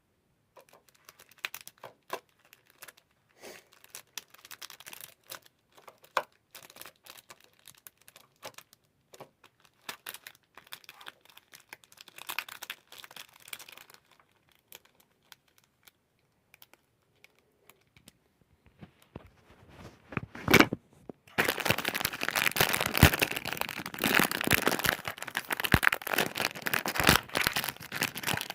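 Plastic packaging of a Re-Ment figure set being handled and opened: scattered crinkles and small clicks at first, then, about three-quarters of the way through, a long stretch of loud, dense crinkling and tearing.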